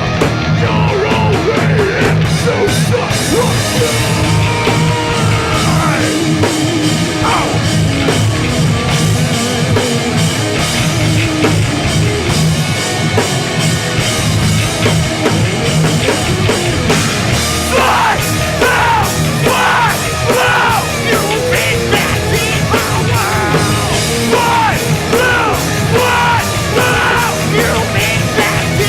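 Hardcore punk band playing live: distorted guitars, bass and drums, loud and unbroken, with shouted vocals that are most prominent in the second half.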